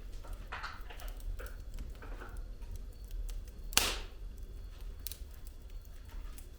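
Firewood burning in a fireplace, crackling with scattered small snaps and soft hisses over a low steady rumble, and one loud pop a little past halfway.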